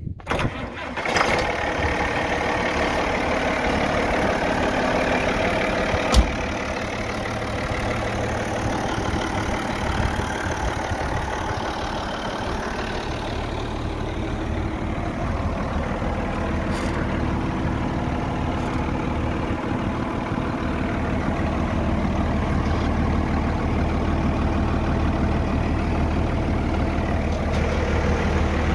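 Allis-Chalmers 7060 tractor's six-cylinder diesel engine coming to life about a second in, then running steadily at idle. A single sharp click about six seconds in.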